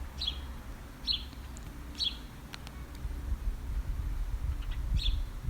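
A songbird repeating a short, high call about once a second, then pausing for a few seconds before one last call near the end, over a faint low rumble.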